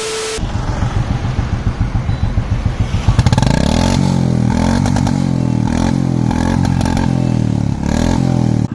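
Royal Enfield Bullet single-cylinder engine, fitted with a loud aftermarket Indore silencer, running with a steady thumping exhaust. From about three seconds in, the throttle is blipped repeatedly, so the revs rise and fall.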